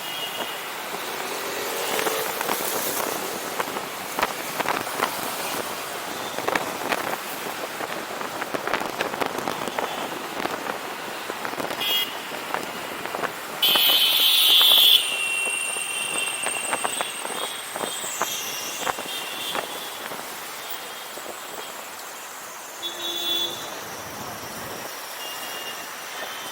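Riding on a motorcycle in busy street traffic: steady road and wind noise with small knocks, and vehicle horns honking. The loudest is a horn blast about halfway through lasting over a second, with shorter toots later.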